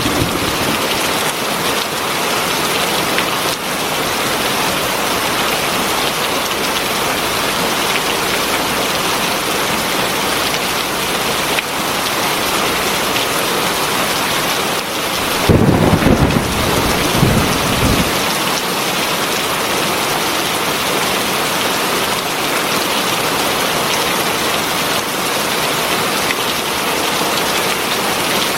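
Heavy rain falling steadily. About halfway through comes a low rumble of thunder lasting two to three seconds.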